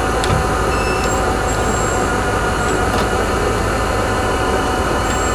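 Steady mechanical running of a truck engine and winch as the cable drags a junked pickup aboard, with a few short high squeaks. The pickup's front right tyre is flat and off the bead, which makes it pull sideways.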